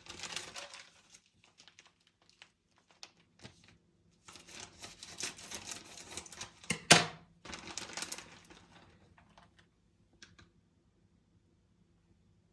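Hands handling objects: a clatter of small clicks, taps and rustling in two busy spells, with one sharp knock about seven seconds in, then it falls quiet.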